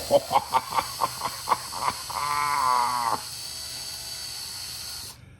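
Drill turning a left-handed drill bit slowly in a broken bolt. It gives a rhythmic chattering, about four pulses a second, then a squeal lasting about a second. Its steady whine cuts off about five seconds in as the bit grabs and unthreads the bolt.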